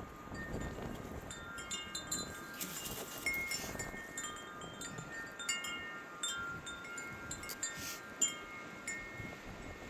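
Wind chimes ringing irregularly, many clear tones overlapping, over a low rush of wind.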